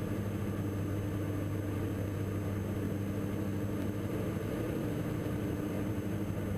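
Twin Austro AE300 turbodiesel engines and propellers of a Diamond DA42 NG, a steady drone heard in the cockpit in flight, holding an even pitch with no change in power.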